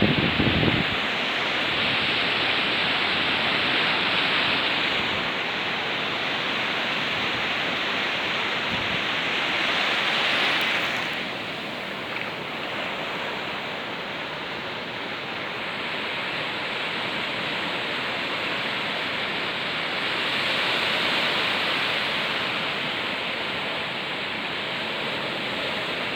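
Steady rush of water from a small waterfall where a stream spills into the sea. It swells and eases every several seconds. A low rumble dies away about a second in.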